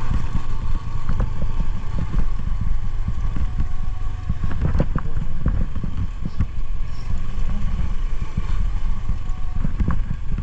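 Motorcycle engine running while riding, a steady low rumble with scattered knocks and rattles throughout.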